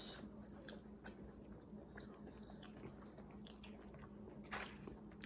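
Faint mouth sounds of someone chewing a Popeyes fried chicken sandwich, with one louder bite about four and a half seconds in.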